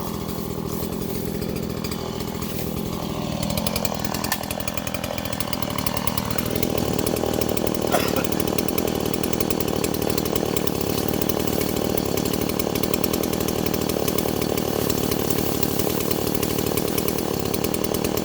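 STIHL MS170 two-stroke chainsaw running at lower revs, then opened up about six seconds in and held at high revs while cutting bamboo stalks, with one sharp crack about eight seconds in.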